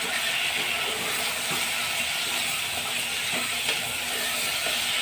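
Raw minced mutton frying in hot oil in an aluminium pressure cooker, a steady sizzling hiss, with a few faint scrapes of the spatula against the pot as the mince is stirred.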